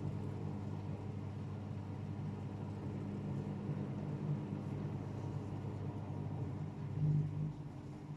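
AEG Öko-Lavamat 76910 washing machine in its wash phase: the three-phase induction motor on its frequency-converter drive turns the drum with a steady low hum. The hum swells louder about seven seconds in, then the motor stops and the sound drops quieter near the end.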